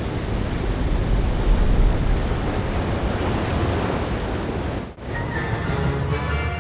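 Steady rushing noise of wind and sea with a low rumble. It cuts off abruptly about five seconds in, and background music begins.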